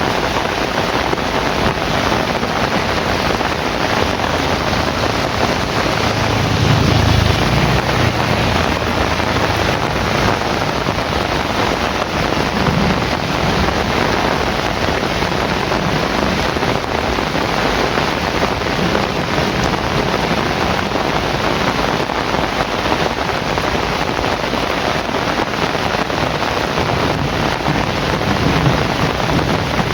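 Heavy rain falling in a steady, dense hiss, with a few brief low rumbles swelling up now and then.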